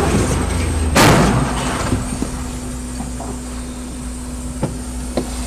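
Car collision: a short, loud crash about a second in, followed by the steady low rumble of the vehicle heard from inside the cabin, with a faint steady hum and a few light knocks.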